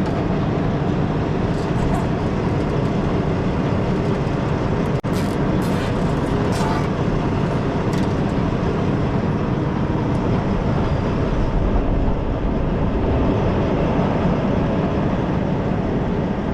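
Steady low rumble of an idling semi truck, with a few light metallic clicks about five to eight seconds in.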